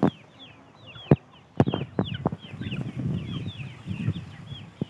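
Three-day-old Hajra chicks peeping: many short, high, falling cheeps overlapping throughout. Several sharp knocks and a low rumble sound underneath.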